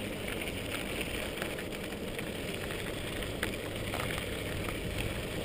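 Electric mountain bike rolling along a damp trail: a steady rush of tyre and wind noise with a few small clicks and rattles.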